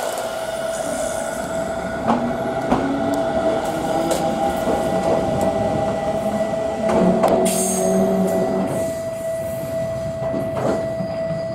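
Echizen Railway electric commuter train pulling out and running away from the platform, with a few sharp clacks of the wheels over rail joints and a brief high-pitched wheel squeal about seven seconds in.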